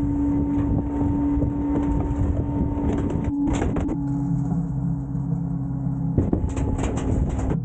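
Heavy diesel garbage truck running, with a low engine rumble and a steady whine, typical of a truck working at a transfer station. About halfway through there is a brief clatter, and near the end there are several metal knocks and bangs.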